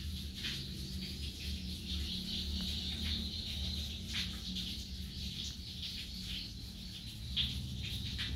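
Scattered short high chirps, like small birds calling, over a steady low hum.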